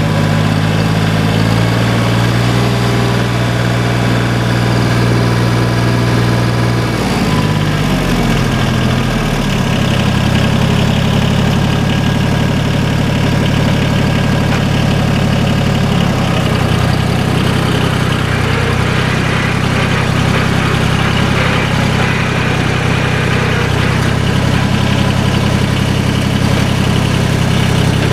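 1981 John Deere 850's three-cylinder Yanmar diesel engine running steadily. About eight seconds in, the throttle is opened and the engine note rises, then holds at the higher speed.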